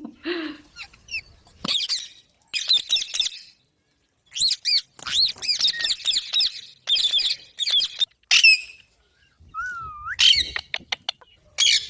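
Pet green parrots squawking and chirping in quick runs of short, high calls, with a couple of brief pauses. Near the end there is one lower whistle that wavers up and down.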